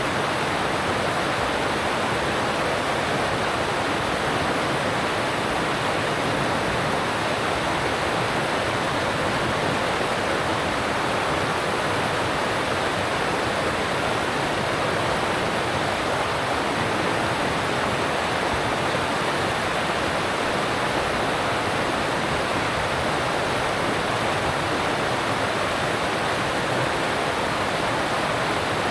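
Alpine stream rushing over rocks, a steady, even rush of water.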